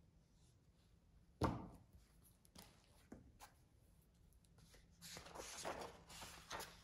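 A single dull thump about one and a half seconds in, followed by a few faint small knocks and, near the end, a couple of seconds of soft rustling, like objects being handled.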